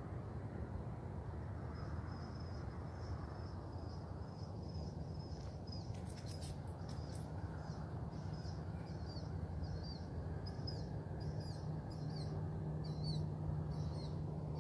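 A small bird giving short, high chirps over and over, about one or two a second, over a steady low background rumble of open country at dawn.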